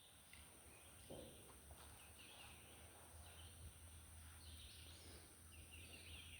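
Near silence: faint outdoor ambience with several faint, high chirps from distant birds.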